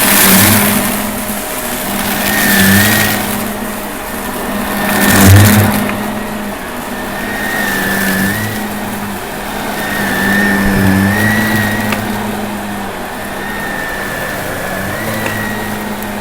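Shark vacuum cleaner running steadily, a motor hum under a high whine that wavers slightly in pitch. The sound swells and fades every two to three seconds as it is pushed back and forth, with a louder rush of suction about five seconds in.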